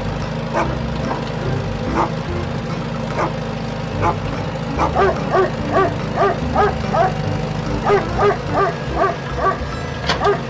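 A dog barking: single barks about a second apart at first, then a quicker run of roughly three barks a second from about halfway in, over a steady low hum.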